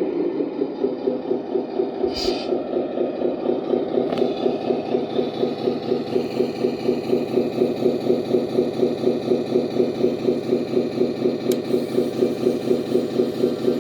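Servonaut SM3 sound module in a 1:14 Tamiya Scania 770S RC truck playing a Scania V8 engine sound through its speaker, dropping back from higher revs into a steady idle that pulses about four times a second. A short click about two seconds in.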